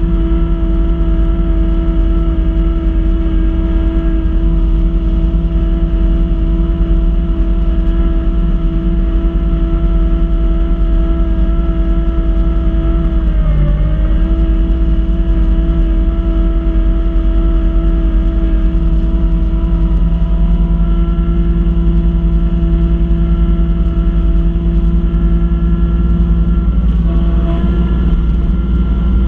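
Kubota B2650 compact tractor's three-cylinder diesel engine running steadily at working speed, driving the front-mount B2782 snow blower. About halfway through the engine pitch dips briefly, then comes back up.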